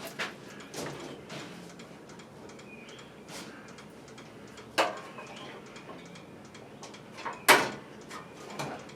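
Scattered metallic clicks and knocks of hands and tools working on a tiller's belt drive, with two sharp louder knocks, one about five seconds in and one about seven and a half seconds in.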